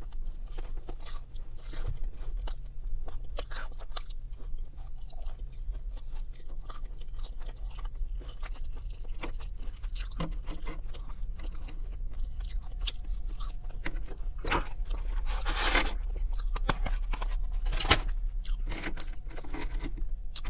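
Close-up chewing and crunching of McDonald's chicken nuggets and fries, an irregular stream of short mouth clicks and crunches, busiest about three-quarters of the way through.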